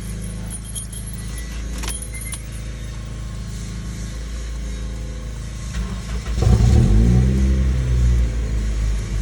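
Car engine running steadily, with a few light clicks about two seconds in, then revving up louder about six seconds in, its pitch rising and falling.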